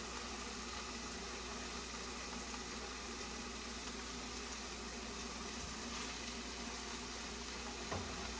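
Salmon fillets frying in a skillet: a steady sizzling hiss as the pieces are laid into the pan, with one brief tap near the end.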